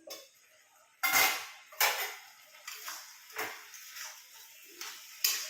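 Metal cooking utensil clanking against a pot, about six separate knocks with short ringing, the loudest about a second in.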